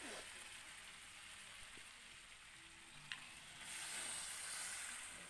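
Chicken pieces in spice masala sizzling faintly in a hot kadai, with a single spatula tap in the middle. About three and a half seconds in, the hiss grows louder as water is poured into the pan.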